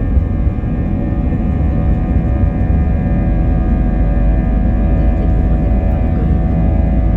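Airliner jet engines at high thrust heard from inside the cabin during take-off: a deep, steady rumble with several steady whining tones over it, growing slightly louder about halfway through.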